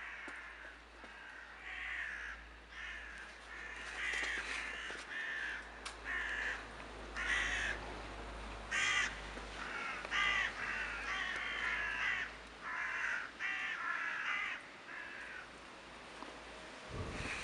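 A flock of migrating birds calling over and over: many short, harsh, rasping calls, overlapping one another.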